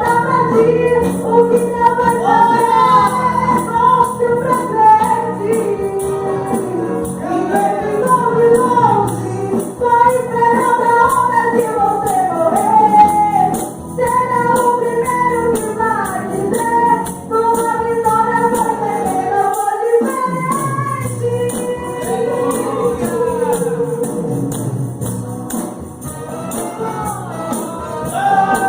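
Voices singing a gospel worship song together, with a tambourine shaken in a steady rhythm.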